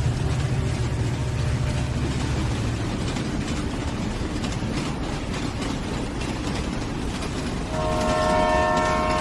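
A train running with a steady rumble and clatter of wheels on rails. About eight seconds in, a train horn starts blowing, a chord of several tones held to the end.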